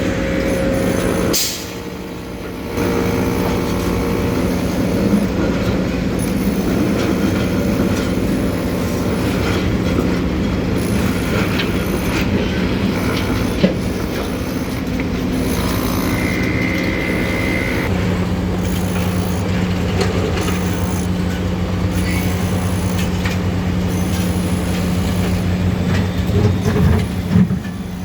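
Steady heavy engine drone with a low rumble, dipping briefly about a second and a half in.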